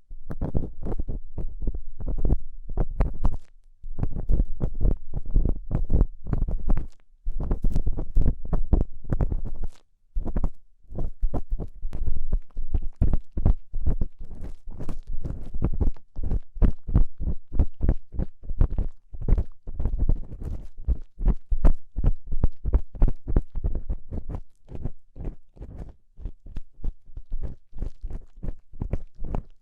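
Ear-cleaning tool scraping and scratching against an ASMR dummy-head microphone's ear in quick, dense strokes, with a heavy low rumble from contact with the microphone. It pauses briefly about 4, 7 and 10 seconds in.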